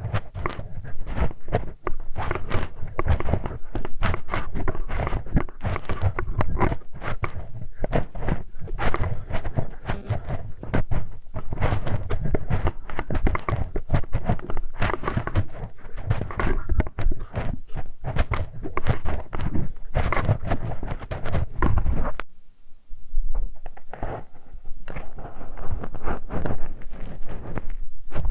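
Ear-cleaning ASMR with a hex key: dense, irregular close-miked scratching and scraping with deep thumps. Near the end the low thumping drops away for a couple of seconds, leaving a thinner, quieter scraping.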